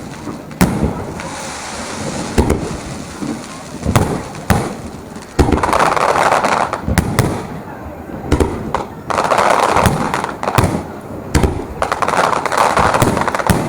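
Fireworks bursting in quick succession: many sharp bangs, with denser stretches of noise about five, nine and twelve seconds in.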